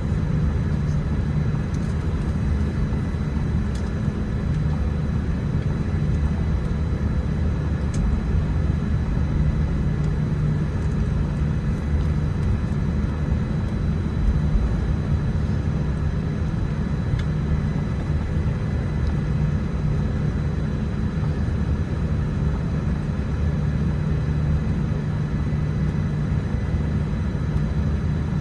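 Steady low rumble inside a Boeing 787-10's cabin as the airliner taxis after landing, engines at idle, with a few faint steady tones above the rumble.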